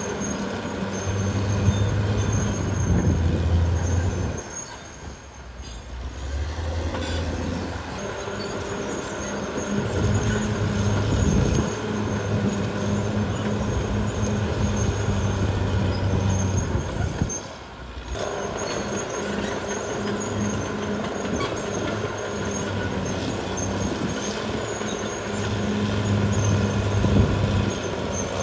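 Caterpillar D6R XL bulldozer working, its diesel engine running under varying load with a high squeal over it. The sound drops away briefly twice, about five seconds in and again near eighteen seconds.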